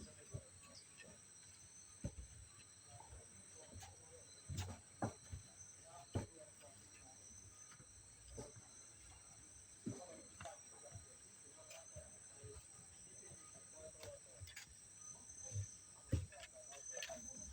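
Faint, steady high-pitched insect chorus, several shrill tones held without a break. Scattered soft knocks and faint distant voices come and go over it.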